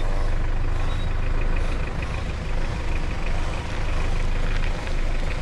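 Motor vehicle engine running with a steady low rumble while driving.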